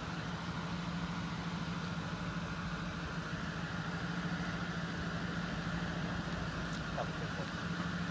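A vehicle engine idling steadily, a constant low hum under an even hiss.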